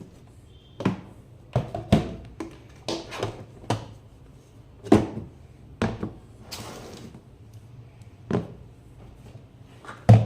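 Hard objects being handled and set down: about a dozen irregular knocks and clacks, the loudest near the end, with a brief scraping rustle around the middle.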